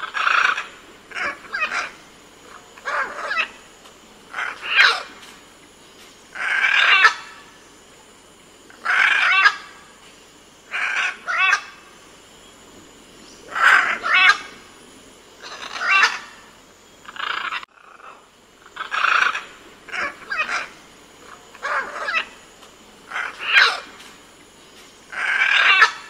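Green-winged macaw calling: a long run of squawks, one every second or two, some short and clipped, some drawn out.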